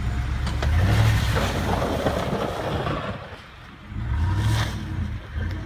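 A vehicle engine running and revving up twice, first for a couple of seconds about half a second in, then briefly around four seconds in, with a rushing noise during the first surge.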